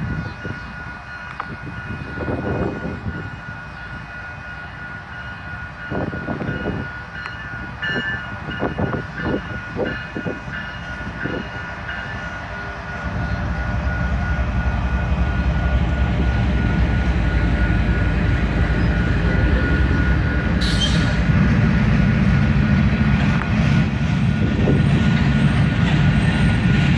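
Freight train passing a grade crossing: its diesel locomotives come up from about halfway through with a heavy low rumble, followed by covered hopper cars rolling by. A crossing bell rings with a steady tone throughout.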